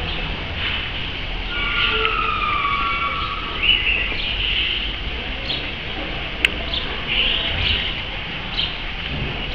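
Birds chirping in short calls again and again, with one longer, steady call about two seconds in, over a low background rumble.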